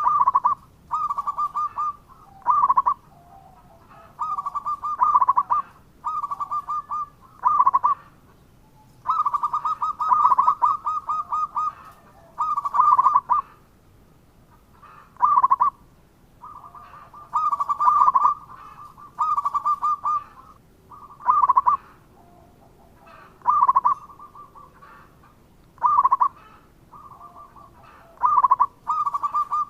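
Zebra dove (local perkutut) cooing: short phrases of quick, stuttering coos at about one pitch, repeated one after another with brief gaps.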